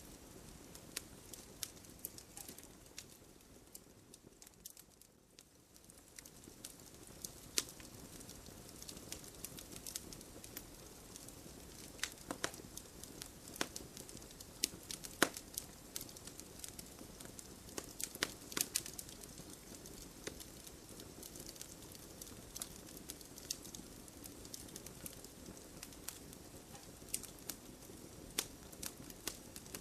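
Wood campfire crackling: irregular sharp pops and snaps over a steady low hiss of burning, with a short lull about five seconds in.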